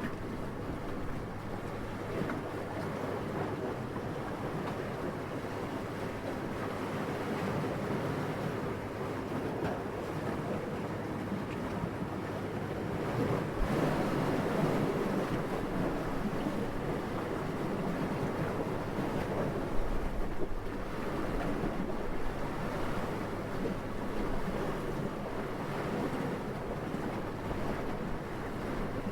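Steady wind noise, a soft rushing sound centred low. It swells about halfway through, and there is a brief low rumble about two-thirds of the way in.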